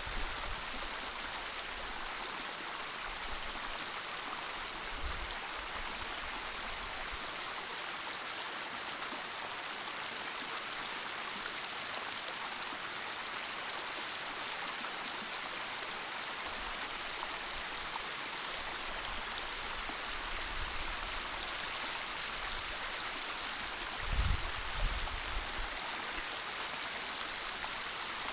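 Waterfall: a steady rush of falling water, with a brief low rumble near the end.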